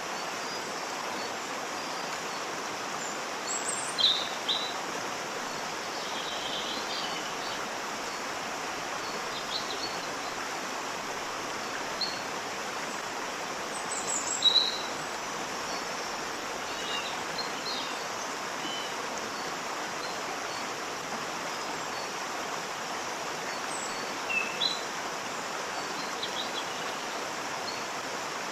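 Waterfall rushing steadily, with birds chirping now and then over it, most clearly about four, fourteen and twenty-four seconds in.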